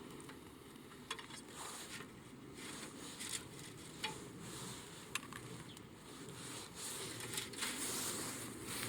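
Small wood fire crackling, with three sharp pops about one, four and five seconds in and a louder spell of hissing crackle near the end.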